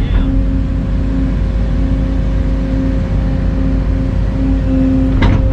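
Excavator's diesel engine running at a steady speed, a loud, constant drone with a steady hum. A brief knock sounds about five seconds in.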